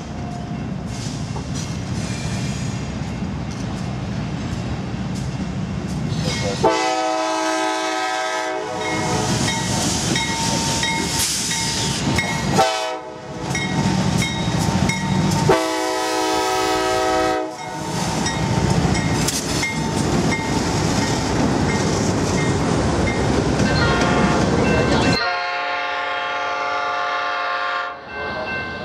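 Diesel freight locomotives passing close by, engines running with a steady rumble of wheels on rail, while the lead locomotive's air horn blows long blasts, about a quarter of the way in and again past the middle. Near the end, another locomotive's air horn sounds one more long blast.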